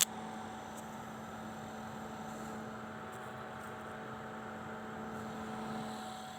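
A switch click, then a steady electrical hum from the device just powered on, with a constant low drone and a fainter higher tone.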